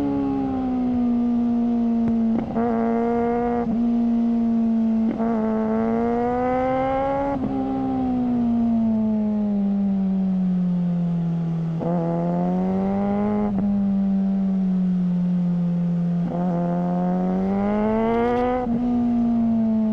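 Suzuki GSR600's inline-four engine running through a GPR Ghost aftermarket exhaust while riding. The revs climb and sag several times, with short breaks and pitch steps where the throttle is rolled or gears are changed.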